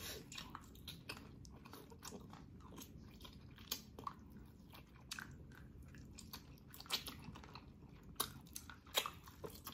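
A person biting into and chewing the meat of boiled pork hock, heard up close: quiet, irregular chewing clicks and mouth smacks, a few of them louder.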